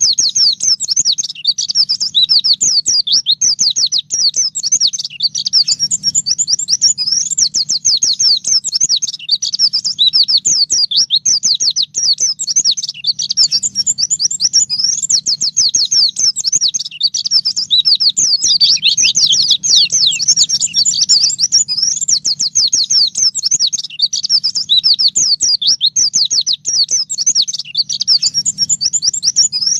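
White-eye (pleci) singing a continuous, fast, high-pitched twittering song of quick up-and-down notes with no pauses, over a faint steady low hum.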